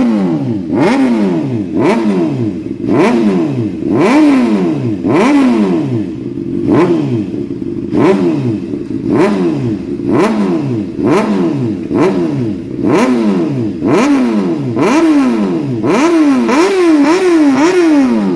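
Honda CBR600RR inline-four with an aftermarket Toce exhaust, revved in sharp throttle blips about once a second, each rising quickly and falling back to idle; near the end come three quicker blips in a row. The exhaust is really loud.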